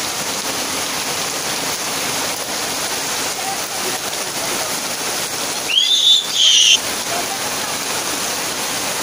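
Heavy rain pouring onto a tin roof, a steady dense hiss. About six seconds in, a loud high-pitched call rises in pitch and holds for about a second over the rain.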